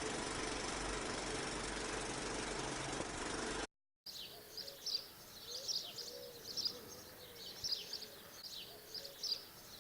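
A steady, dense noise cuts off abruptly about four seconds in. After a brief silence, small birds chirp in quick, short falling notes, with a low, softly arched call repeating underneath.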